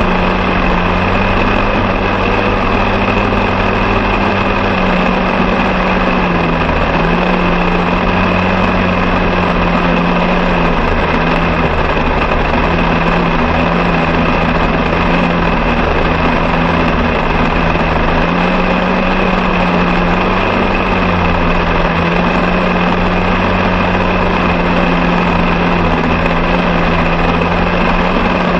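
An engine running steadily at a constant speed, its pitch wavering slightly up and down.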